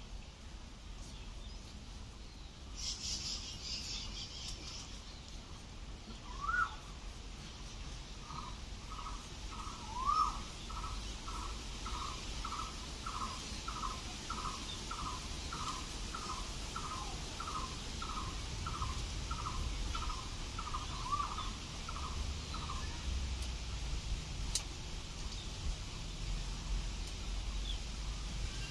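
A bird calling: two single rising calls, then a long, even series of short notes at one pitch, about two a second, lasting some fifteen seconds. A brief burst of higher chirping comes about three seconds in.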